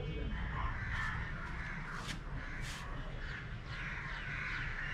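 Birds calling over and over, with a steady low rumble underneath and a few short clicks.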